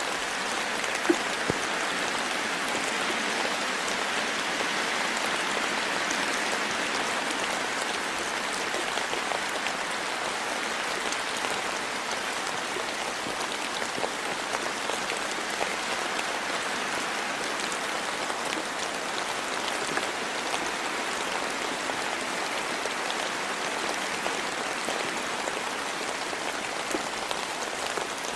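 Steady rain falling in a forest, an even hiss of many small drops, with one sharper tick about a second in.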